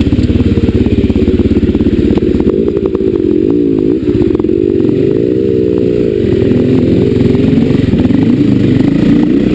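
Off-road motorcycle engine running at low revs on a trail, its pitch rising and falling a few times about three to six seconds in, with short clicks and clatter over it.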